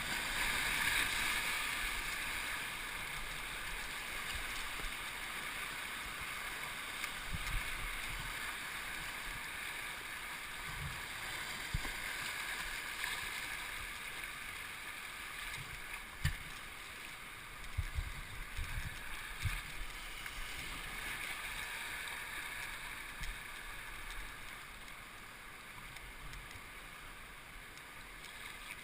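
Steady rush of river water, with a few short low thumps scattered through the middle; the rushing slowly grows fainter towards the end.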